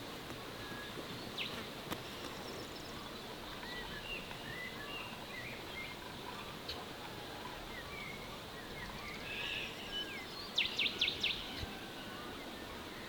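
Small birds chirping with short, scattered calls over a steady outdoor background hiss. A little before the end comes a quick run of about five sharp ticks.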